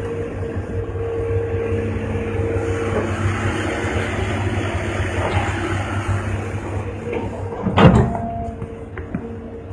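Heavy diesel earthmoving machinery, a hydraulic excavator working with dump trucks, running with a steady engine hum. There is one loud clunk a little under eight seconds in.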